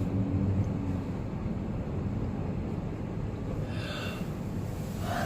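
Steady low rumble of a car heard from inside the cabin, with a brief breathy sound, like a gasp or sigh, about four seconds in.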